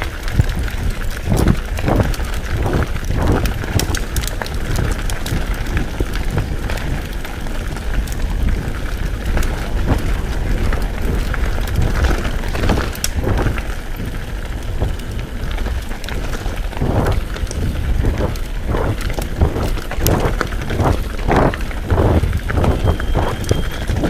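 Mountain bike riding over rough trail: wind buffeting the microphone over the rattle and clatter of the bike, with repeated knocks as it goes over bumps.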